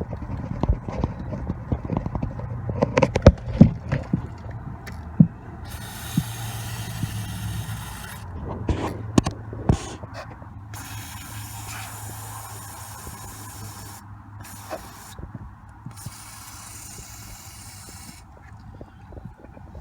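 Aerosol can of silicone spray lubricant hissing in several bursts of a few seconds each, sprayed onto truck suspension bushings, after a few seconds of scattered knocks and clicks.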